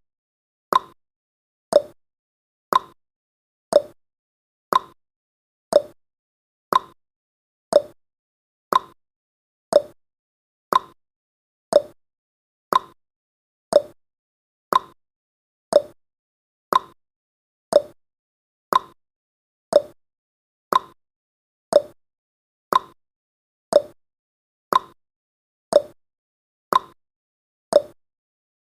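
Clock-style ticking sound effect of a countdown timer: one sharp tick a second, alternating slightly in pitch like a tick-tock.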